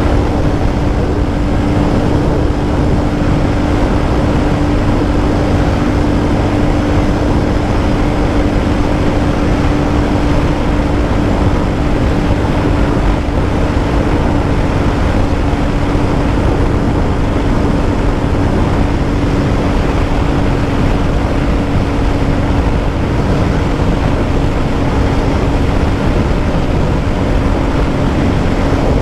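Royal Enfield Classic 350's single-cylinder engine running flat out in fifth gear at about 130 km/h, holding one steady note at its top speed, which the rider puts down to a limiter. Heavy wind rush on the microphone runs underneath.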